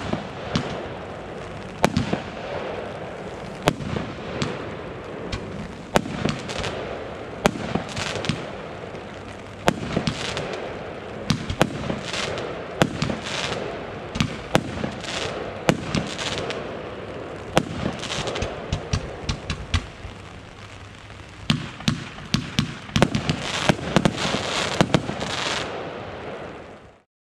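Consumer fireworks going off: many sharp bangs in quick succession over continuous crackling, cut off abruptly near the end.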